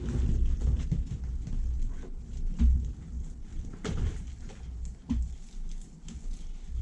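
Irregular soft thumps and knocks of someone moving about and working in a boat's cockpit, with a couple of sharper clicks near four and five seconds in.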